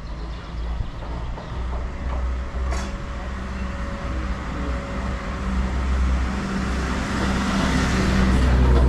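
A motor vehicle's engine rumbling steadily as it draws nearer, growing louder toward the end, with a single sharp click about three seconds in.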